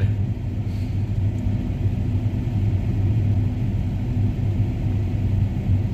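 Farm tractor engine running steadily, a low even drone, while the tractor struggles for traction on slippery snow.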